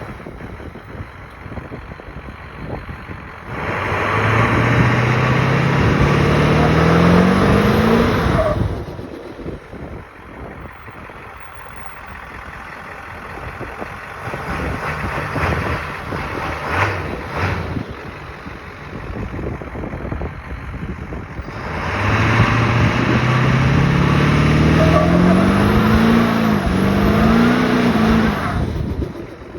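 Ford 7.3 Powerstroke diesel with a KC300X turbo pulling hard twice, its pitch rising with a high turbo whistle climbing over it, with a short dip in the second pull. Each pull ends in a sudden lift-off, where the turbo flutters. Quieter running lies between the pulls.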